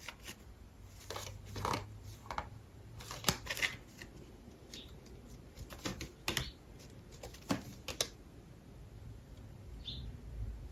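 Tarot cards being handled and laid on a table: scattered light clicks and taps at irregular intervals.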